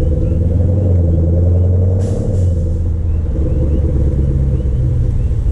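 Hyundai Genesis sedan's V8 droning through a muffler-delete exhaust while cruising; the pitch eases down a little about two seconds in, along with a brief rush of noise.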